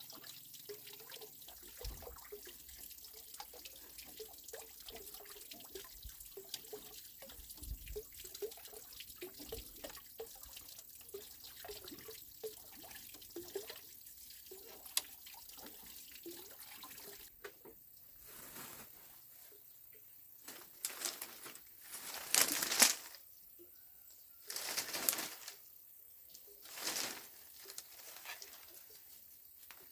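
Water trickling and dripping with many small irregular drips, then three short louder bursts of noise in the second half.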